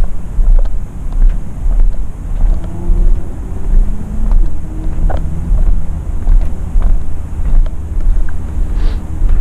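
Low rumble of wind and handling noise on a GoPro's microphone while walking, swelling and dropping in time with the steps, with faint clicks scattered through it.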